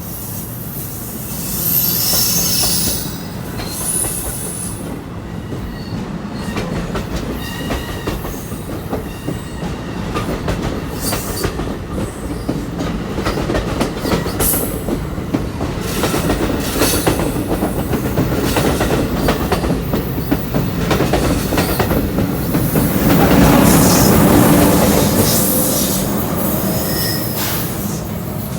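Train wheels rolling and clicking over the rail joints, with high-pitched wheel squeal about two seconds in. The train is loudest about two-thirds of the way through.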